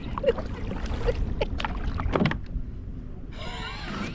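Kayak under way: scattered knocks and splashes of paddling over a steady low rumble.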